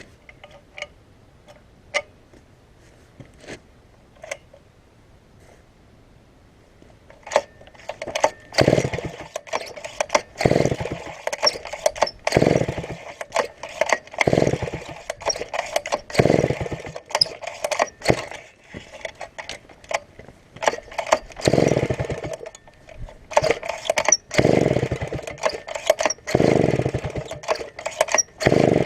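Chinese-made copy of a Stihl 070 two-stroke chainsaw being pull-started. After a few scattered clicks, the starter cord is pulled again and again, about once every two seconds, each pull turning the engine over with a loud surge.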